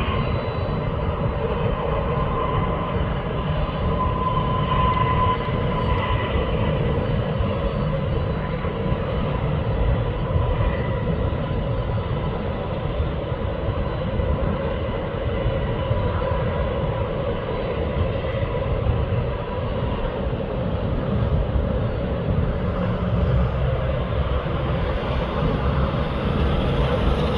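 Boeing 747 jet engines running, a steady rumble with a faint high whine that fades out about two-thirds of the way through.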